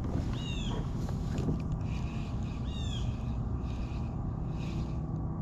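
A bird gives a short, high, arched call twice, about two and a half seconds apart, over a steady low rumble.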